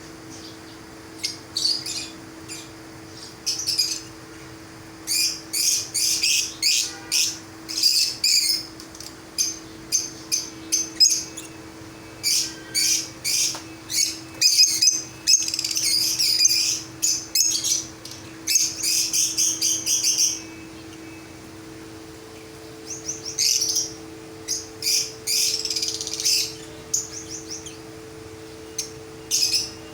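Many aviary birds chirping and tweeting in quick high-pitched bursts, busiest through the middle, thinning out shortly after the middle and picking up again, over a steady low hum.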